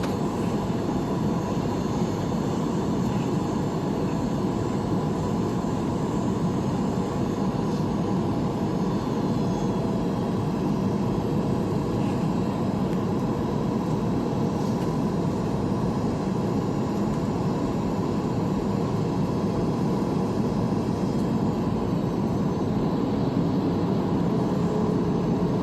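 Steady cabin noise inside a jet airliner on its descent: the even hum of the engines and rushing air, with no breaks or changes.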